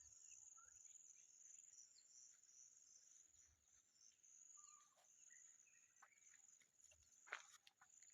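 Faint, steady, high-pitched insect trill with scattered bird chirps, and one sharper, louder call about seven seconds in.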